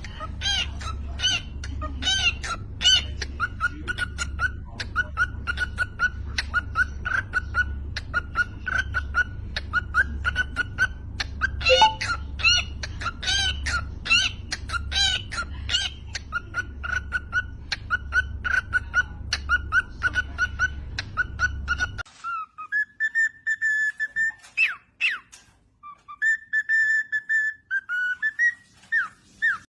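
Cockatiel whistling a tune. For about twenty-two seconds it is quick repeated whistled notes over a low pulsing hum. Then come cleaner, longer held whistles with short glides, in separate phrases.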